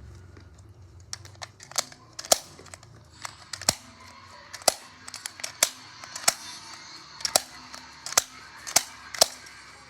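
Irregular sharp plastic clicks, roughly one or two a second, from a new toy and its packaging being handled.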